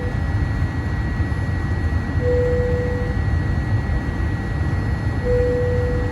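Steady low rumble inside a Boeing 787-8 passenger cabin, with a steady high-pitched whine and a short mid-pitched tone repeating about every three seconds.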